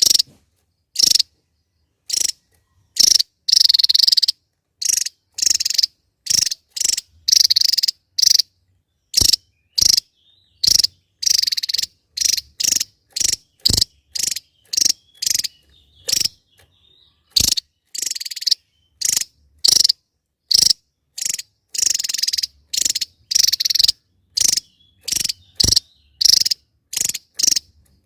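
Javan tesia giving a rapid, irregular series of short, harsh, buzzy calls, each well under a second, with brief silences between.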